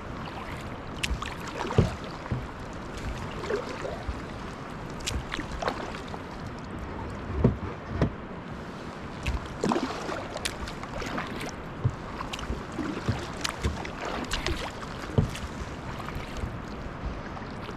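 Kayak paddling: paddle blades dipping and splashing in irregular strokes every second or two, over a steady wash of water.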